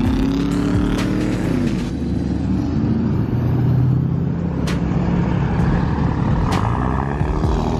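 Road vehicle engine revving as it drives off, its pitch rising and falling several times, with a few sharp clicks over it.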